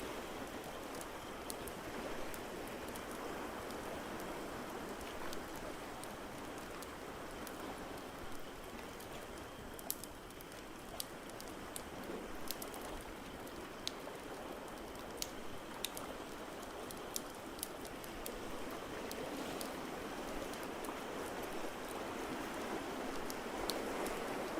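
A crackling wood fire gives irregular sharp pops and snaps over a steady rushing wash of ocean waves.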